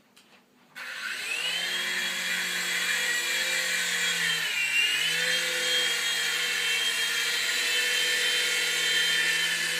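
Toy remote-control helicopter's small electric motor and rotor whirring, starting suddenly about a second in. Its pitch dips and comes back up about halfway through, then holds steady.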